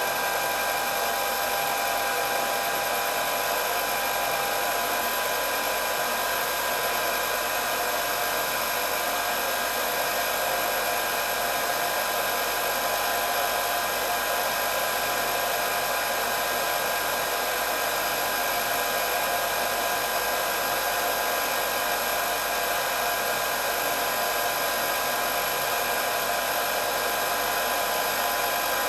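Hair dryer running steadily: an even rush of air with several steady high tones over it and no change.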